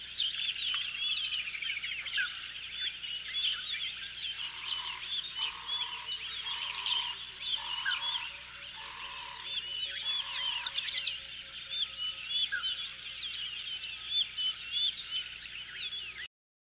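Many wild birds chirping at once, a busy chorus of short high notes, with a lower note repeated six times about a second apart partway through. The sound cuts off suddenly near the end.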